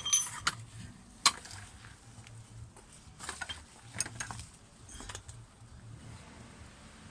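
Metal hand tools and parts clinking and knocking during work under a car, with scattered sharp clicks and one loud sharp knock about a second in, over a faint steady low hum.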